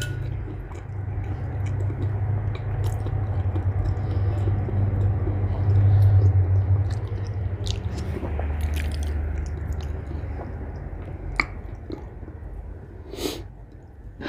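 Close-miked chewing and mouth sounds of someone eating chili beans and cornbread, with scattered soft clicks and a couple of sharper ones near the end, over a steady low hum.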